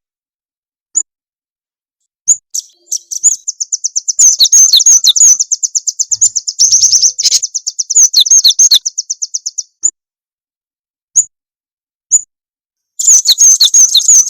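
Recorded songbird lure calls: very fast, high-pitched chattering trills with a few lower falling notes, broken by short pauses that hold only single chirps. It is played as a lure track of cinereous tit and nuthatch song.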